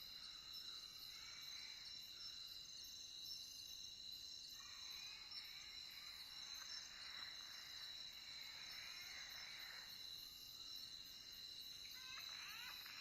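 Faint night ambience: insects such as crickets chirring steadily at a high pitch, with a few short bird chirps near the end.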